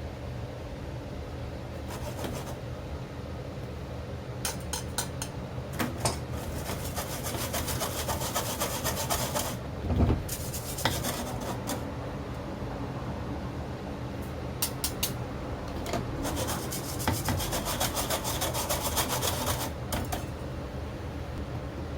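Rapid scraping or rubbing strokes in two spells of about three seconds each, over a steady low hum.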